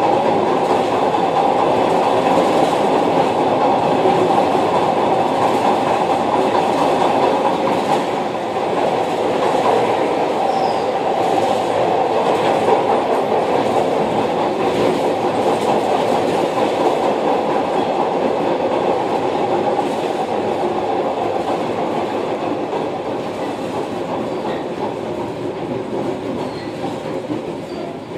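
Glasgow Subway train running, a steady loud rumble of wheels on rail that grows gradually quieter over the last several seconds.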